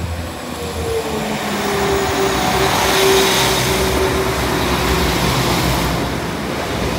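Northern Class 195 diesel multiple unit passing close by over a level crossing: engine and wheels on the rails, loudest about three seconds in. A steady whine runs through it.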